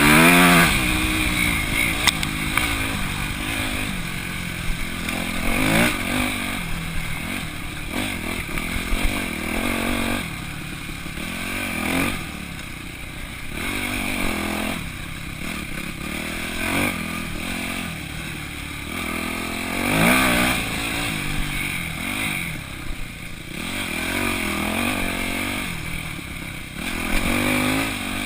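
2002 Yamaha YZ250F's single-cylinder four-stroke engine revving up and easing off again and again as the dirt bike is ridden hard, its pitch climbing in repeated sweeps.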